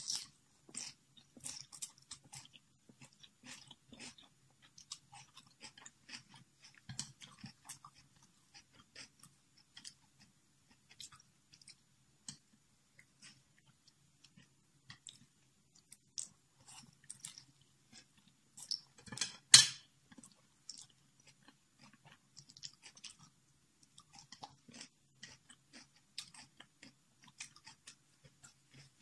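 A person chewing and eating Samyang instant noodles: a run of small wet mouth clicks and crunches, with one much louder sudden noise about two-thirds of the way through.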